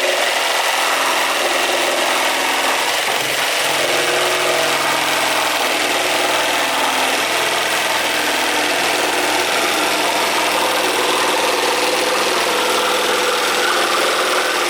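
Ryobi One+ R18JS7-0 18V cordless jigsaw sawing through wood at half speed: a steady, loud reciprocating-blade run that cuts off just at the end.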